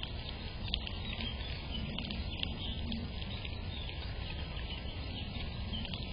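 Small birds chirping, with many short calls scattered throughout, over a steady low rumble.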